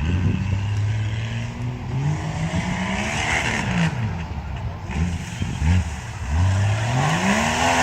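Stock-class tuff truck's engine revving hard and easing off again and again, its pitch climbing and dropping several times, with a long climb near the end.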